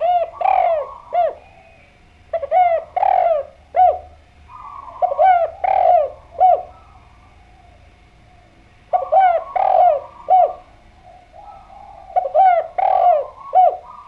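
Spotted dove cooing: five phrases of three or four coos each, a few seconds apart, the middle note of each phrase the loudest.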